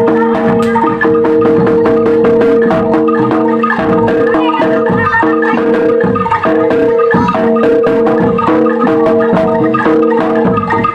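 Loud live gamelan-style ensemble music: metal mallet instruments struck in a quick, steady rhythm over sustained held tones, with fast percussion strokes throughout.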